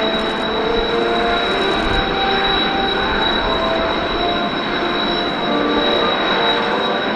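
Jet aircraft engines running with a steady high whine over a rushing noise, with shorter wavering tones underneath.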